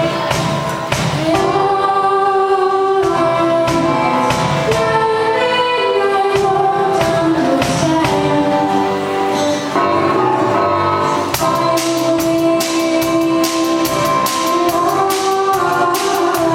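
A girl singing a song over a musical backing track, holding long notes. A steady percussive beat comes in about eleven seconds in.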